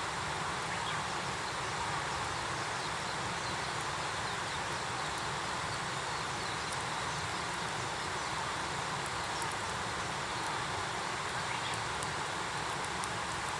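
Wood campfire burning: a steady hiss with faint, scattered crackles and pops.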